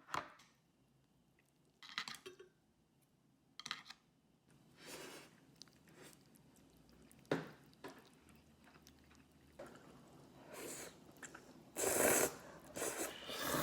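A person chewing and crunching food in a series of short, irregular bursts, loudest near the end.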